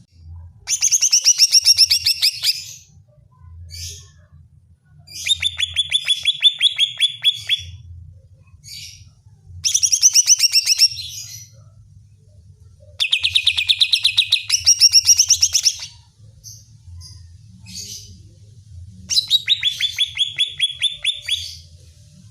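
Greater green leafbird (cucak ijo) singing in five loud bursts of fast, rapidly repeated notes, each two to three seconds long, with short pauses between them. A faint low hum runs underneath.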